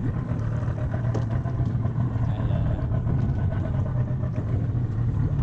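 Motorboat engine running steadily under way: a constant low drone.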